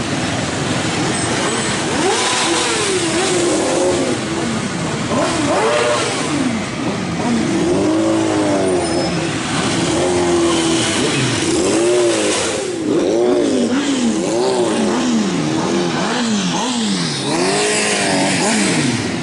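Motorcycle engines revved up and down again and again, the pitch rising and falling about once a second.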